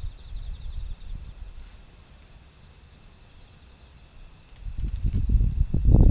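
Typhoon wind buffeting the microphone in low rumbling gusts. It eases in the middle and swells again near the end, over crickets chirping steadily in the background.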